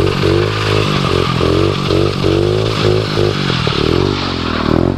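A 110cc single-cylinder pit bike engine revving hard in repeated surges, its pitch climbing and dropping again and again as the throttle is worked through a drift spin, over a steady hiss; it drops off near the end.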